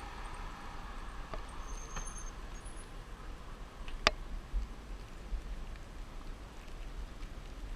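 Wind rumbling on the microphone during a downhill bicycle ride, with scattered light clicks and one sharp click about four seconds in.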